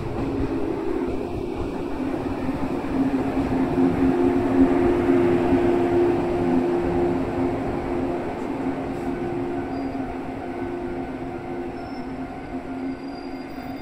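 Shinano Railway 115 series electric multiple unit rolling slowly along the platform and braking to a stop, a steady rumble with a low whine that eases off as the train slows.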